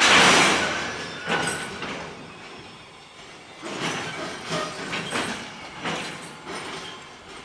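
Koki 104 container flatcars of a freight train rolling slowly past, wheels knocking over the rail joints in uneven bursts, with brief faint squeals. The loudest burst comes right at the start.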